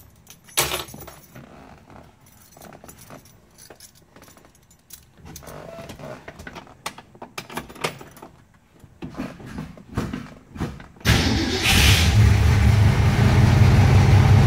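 Light clicks and key rattles, then about eleven seconds in the 1966 Ford Mustang's 289 four-barrel V8 starts from cold and runs steadily and loudly.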